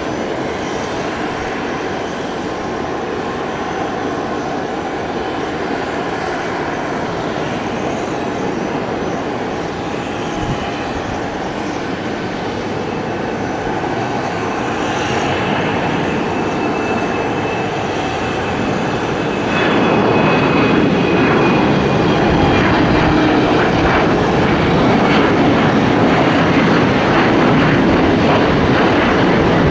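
Airplane engines running steadily, with a faint high whine over the noise. The sound grows sharply louder about two-thirds of the way through and stays loud.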